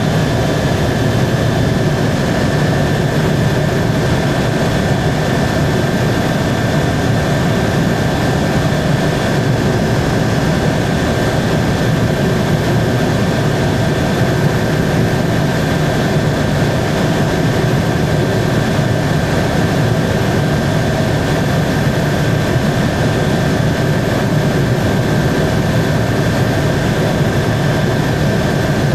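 Helicopter in steady cruise flight: an even, unbroken drone of rotor and engine noise with a constant high whine on top.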